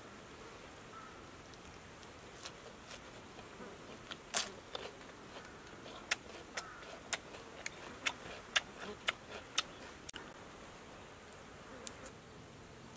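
A person chewing food with sharp, wet mouth clicks, about two a second for several seconds in the middle, over a faint steady buzz of insects.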